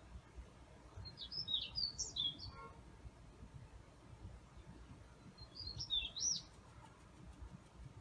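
A songbird singing two short phrases of quick, high whistled notes that sweep up and down, one about a second in and one near six seconds, over a low background rumble.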